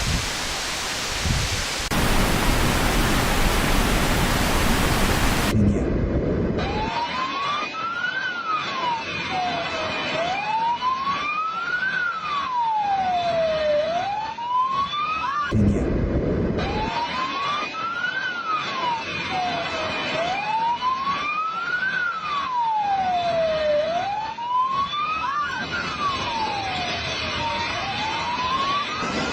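A loud, even rushing noise for about the first six seconds, then a siren wailing, its pitch slowly rising and falling about every four seconds. A short low rumble breaks in about halfway through.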